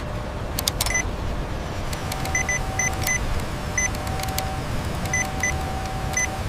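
A steady low machine rumble with a scatter of short, high electronic beeps and clicks, and a mid-pitched tone that sounds in several longer stretches.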